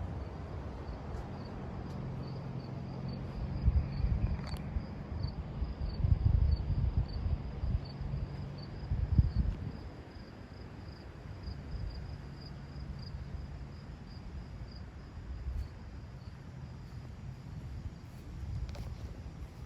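Insects chirping in a high, even pulse a few times a second, over a low rumble with several dull thumps in the first half.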